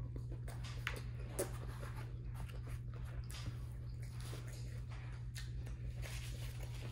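Mouth-close chewing of a bite of chicken sandwich, with small wet smacks and crunches scattered through it, over a steady low hum.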